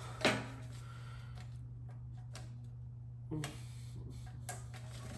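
Scattered light clicks and a couple of sharper knocks from tools and sprayer parts being handled during disassembly, over a steady low hum.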